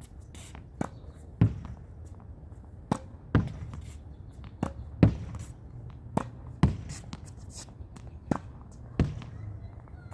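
Tennis ball rallied against a practice wall: sharp pops of the racket striking the ball and the ball hitting the wall, coming in quick pairs about every one and a half seconds, hit from up close.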